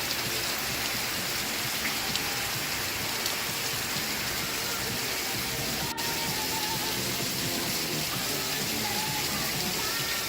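Steady rain hiss with faint music from an old TV broadcast underneath, the music growing clearer in the second half. A momentary dropout about six seconds in.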